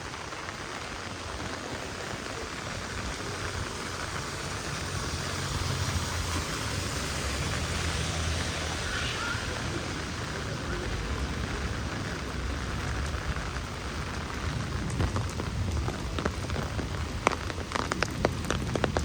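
Heavy rain falling and splashing on a city street, a steady hiss with a low rumble underneath. Near the end come a run of sharp, close taps.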